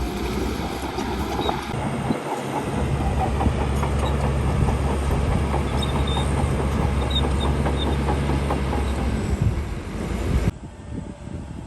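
Crawler bulldozer working, its diesel engine a steady low drone under the dense clatter of its steel tracks. Near the end the sound drops suddenly to a quieter machine noise.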